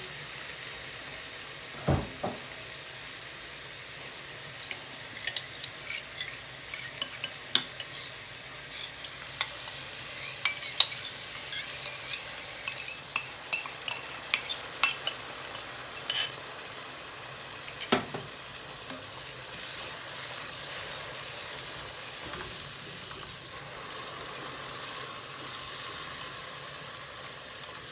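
Curry masala of fried onion, ginger and garlic sizzling in a pan as yogurt is stirred in, with a spoon scraping and clicking against the pan many times from about four to seventeen seconds in. A louder knock comes about two seconds in and another about eighteen seconds in.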